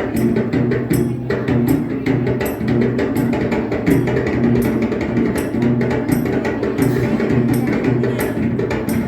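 Dance music driven by rhythmic drumming, with sharp drum strokes repeating steadily over a sustained pitched accompaniment.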